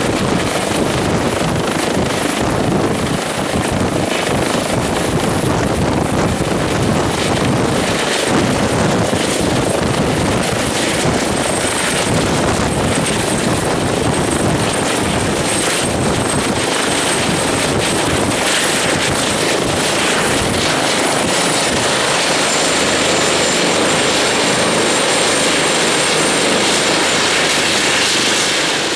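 Airbus Helicopters H145's twin turbine engines and rotor running steadily, a loud, even rush with a high turbine whine that drops slightly in pitch about two-thirds of the way through.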